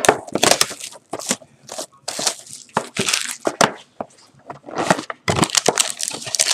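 Plastic wrapping crinkling and tearing in irregular crackles as a sealed trading-card box is opened.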